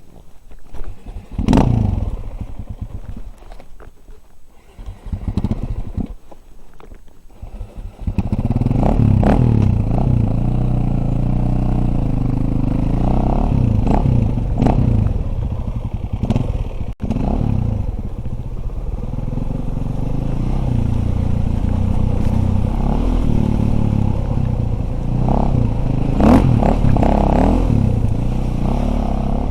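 Dirt bike engine: a few sharp knocks, then the engine starts about eight seconds in and runs with revs rising and falling. It fires after its ignition points have been checked.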